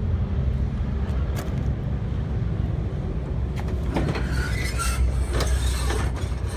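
Steady low vehicle rumble, with a faint click about one and a half seconds in.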